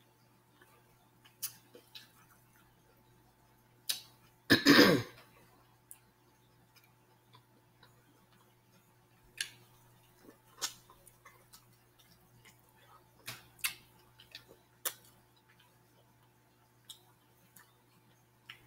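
Close-up mouth sounds of a person eating corn: scattered soft wet clicks and smacks of chewing, about a dozen spread through, with one loud short noise from the mouth or throat about four and a half seconds in.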